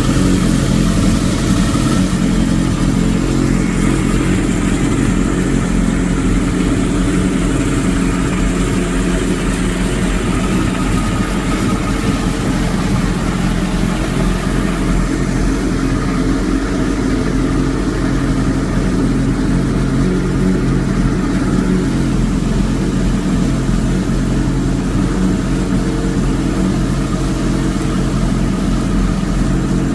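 Kawasaki KZ1000's air-cooled 1015 cc four-cylinder engine running steadily at idle.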